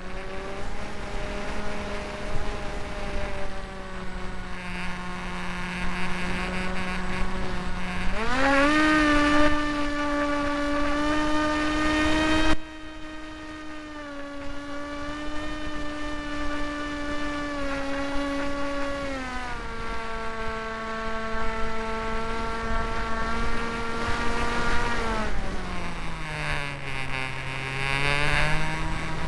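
Electric motor and propeller of a Hawk Sky RC foam plane whining in flight, its pitch changing with throttle: a sharp rise about eight seconds in, a step down near the middle, a deeper dip a few seconds before the end, then a climb back. A rush of wind noise on the microphone runs under it for the first twelve seconds or so and cuts off suddenly.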